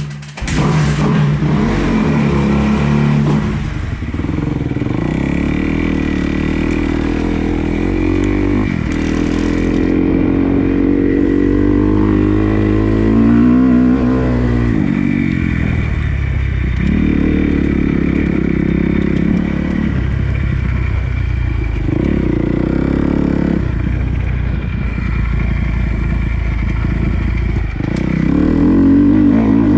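Dirt bike engine being ridden hard, revving up and down over and over as the throttle opens and closes and the gears change.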